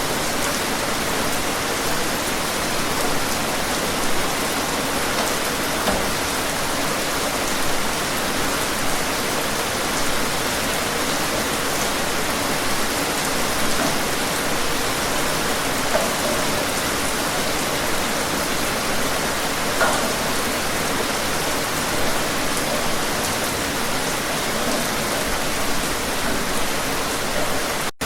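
Steady rain falling in an even hiss, with a louder drop or splash every second or two. It cuts out briefly just before the end.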